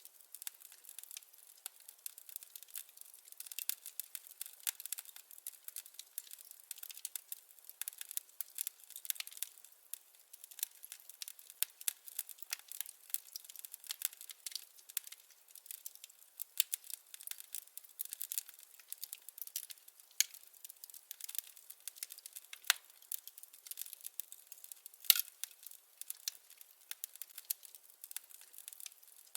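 Wood fire crackling: a constant, irregular run of small sharp snaps and pops, thin and without any low rumble, with a couple of louder pops near the end.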